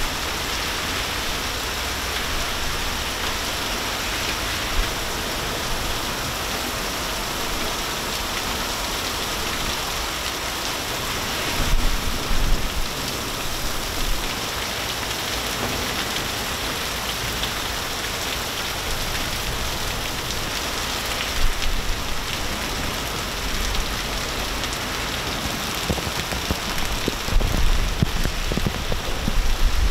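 Heavy rain and hail from a thunderstorm pelting down, a steady dense hiss, with a few brief louder low swells about 12 seconds in, around 21 seconds and near the end.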